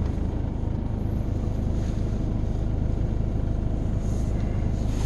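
Steady low rumble of a car being driven: engine and road noise with no sudden events.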